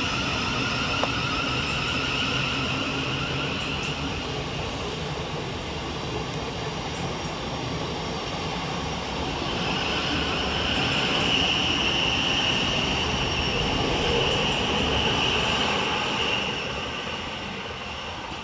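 Thameslink Class 700 electric multiple unit departing the station and running past, with a steady rolling noise and a high whine that grows louder about halfway through and fades away near the end.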